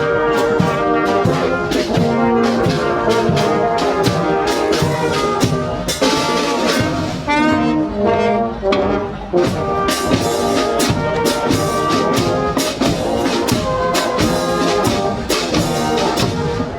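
Brass marching band playing a tune, with trumpets and trombones over drums beating a steady march rhythm.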